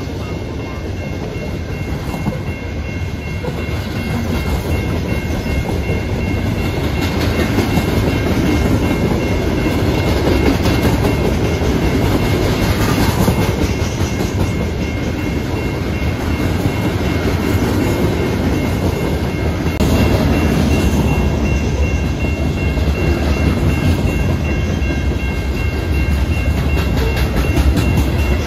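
Freight train rolling past on a mainline, its steel wheels clattering over the rails with a steady low rumble. It grows louder over the first several seconds, then holds.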